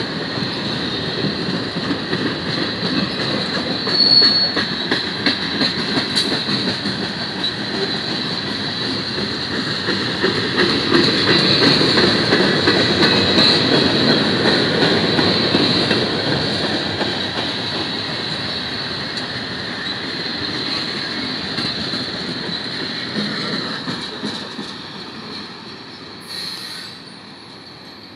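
Freight cars of a manifest train rolling past: wheels clattering over the rail joints under a steady high wheel squeal, with one sharper squeal about four seconds in. The sound is loudest in the middle, then fades as the train rolls away near the end.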